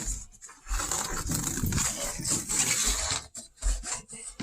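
A rubbing, scraping noise that runs for about two and a half seconds, with a few low thumps.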